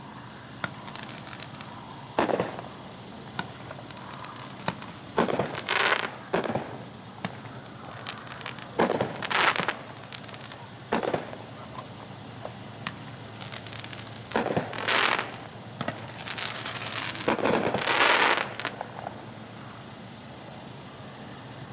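A 9-shot 200-gram consumer fireworks cake firing its shots one after another, with sudden loud bangs every couple of seconds, some in quick pairs, each trailing off briefly.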